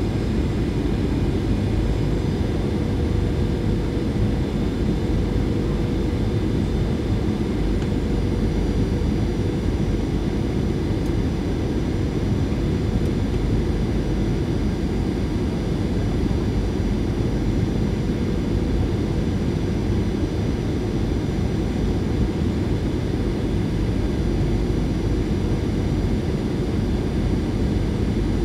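Steady cabin noise inside a Boeing 737-800: a low, even rush of airflow and engine noise, with faint steady high tones from its CFM56 engines over it.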